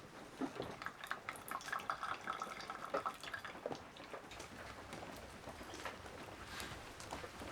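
Freshly boiled water being poured from a pot and dripping, with small irregular clicks and clinks. The pour is densest between about one and three seconds in.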